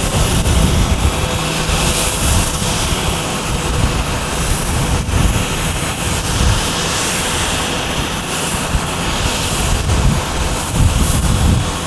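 Airbus A330-300's twin General Electric CF6-80E1 turbofans at takeoff power: a loud, steady jet roar with a low rumble that swells and fades.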